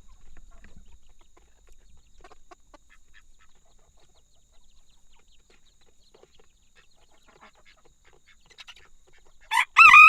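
Faint scattered chicken clucks, then a rooster starts crowing loudly near the end.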